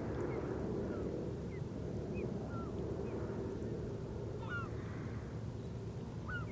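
Short, scattered bird chirps, a cluster of them about four and a half seconds in, over a steady low rumble.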